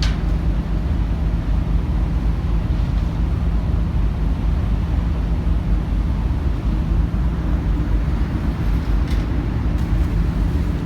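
Steady low drone of the ferry Katsuragi's engines and machinery heard aboard the ship, with a short click at the start and a fainter one near the end.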